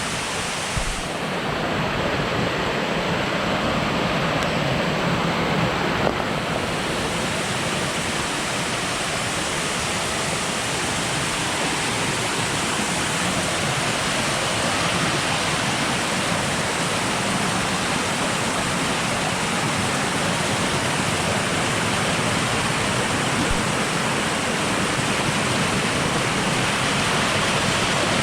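Steady rush of falling or flowing water, an even unbroken roar.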